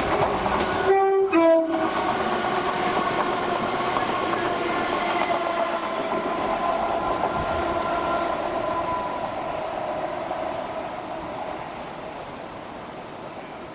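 Passenger train sounding a two-tone horn about a second in, a short higher note then a lower one. It then runs past with steady rail noise and a pitched drive whine that slowly fades near the end.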